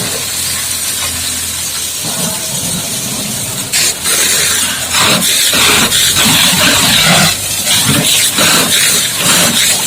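High-pressure water jet from a booster-pump wash hose spraying onto a dump truck. It makes a loud hiss that grows stronger and starts to surge unevenly about four seconds in, as the jet sweeps across the surfaces.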